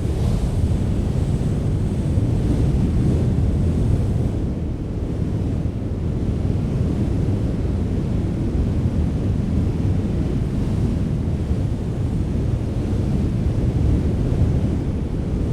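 Strong wind blowing steadily, a continuous deep rumbling rush with no distinct gusts or breaks.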